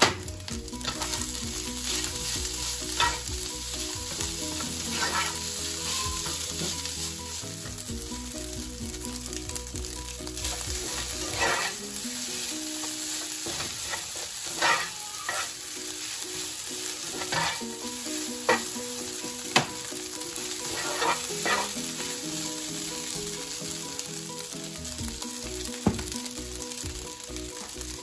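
Fried rice sizzling in a nonstick frying pan as it is stir-fried, with the slotted spatula scraping and knocking against the pan now and then.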